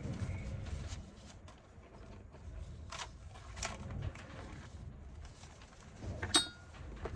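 Small clicks and taps of handling craft tools and paper over a low rumble, with one sharp click that rings briefly about six seconds in.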